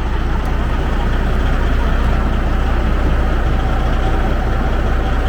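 Diesel engine of a 2004 Freightliner Columbia semi truck idling steadily.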